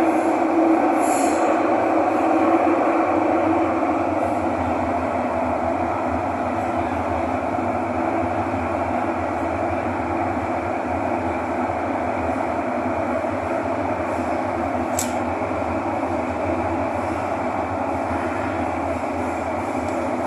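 Cabin noise of a Thomson–East Coast Line MRT train running between stations in the tunnel: a steady rumble and rush that eases a little after the first few seconds. A brief sharp tick comes about fifteen seconds in.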